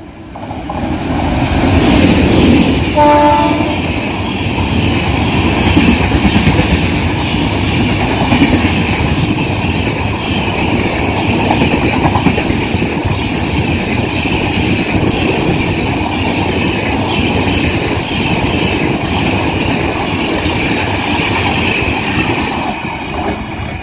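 An express train of LHB coaches, hauled by a WAP-7 electric locomotive, running through a station at speed. It gets louder as it nears, gives one short horn blast about three seconds in, then the coaches rush past with steady wheel clatter over the rail joints.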